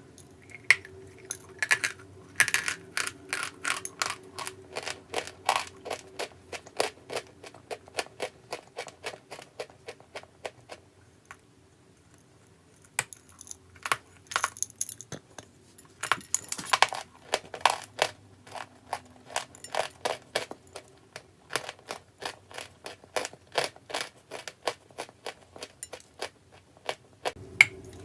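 Brittle chalk crunching and crackling, a quick run of sharp crunches several to a second, with a lull about halfway through.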